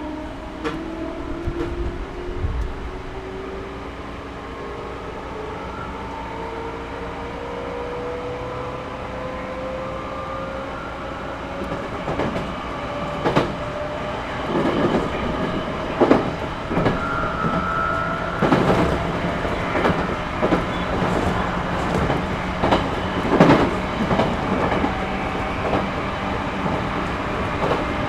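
Series 211-5000 electric train heard from inside the car, pulling away: a motor and gear whine rises steadily in pitch over the first dozen seconds. From about halfway the wheels clack over rail joints and the running noise grows louder as speed builds.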